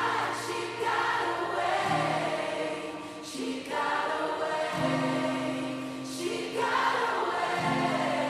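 Live band and backing singers holding the closing chords of a slow pop song: sustained chords that change every two to three seconds under layered, choir-like voices.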